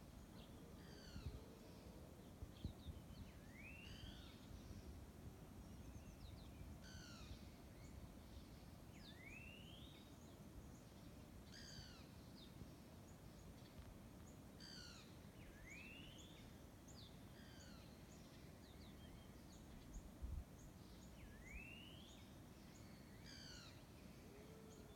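Birds singing: one repeats a clear rising whistle about every six seconds, while others give short, quick falling notes in between, over a faint low background rumble. A few soft low bumps come about a second in and about twenty seconds in.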